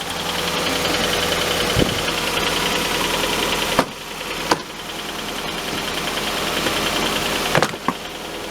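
Nissan Fuga 450GT's VK45DE 4.5-litre V8 running after a cold start, with a fast, even metallic ticking over the engine note that follows engine speed. This is the abnormal noise that shows up in the first few minutes after a cold start and whose cause the owner has not found. A few sharp clicks stand out, about two, four and seven and a half seconds in.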